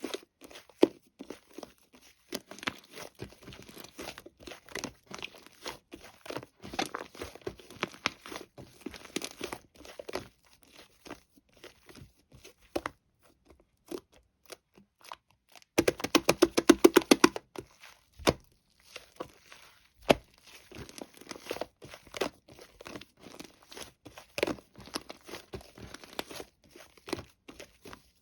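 Sticky slime being pressed, poked and stretched by hand, with irregular wet clicks and crackles. About sixteen seconds in comes a louder run of rapid clicks lasting a second and a half, as the slime is squished quickly.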